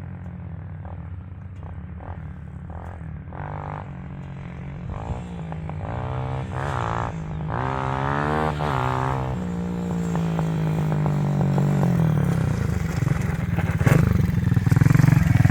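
XPRO Hawk 150cc pit bike's single-cylinder four-stroke engine running with a newly fitted high-flow air cleaner, revved up and down a few times in the middle and growing louder toward the end.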